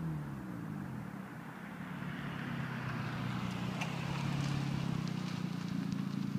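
2012 Honda Civic Si's 2.4-litre four-cylinder engine running through an aftermarket Tsudo catback exhaust: the exhaust note drops in pitch at the start, then holds a steady drone that grows louder, with a rising hiss and a few faint clicks.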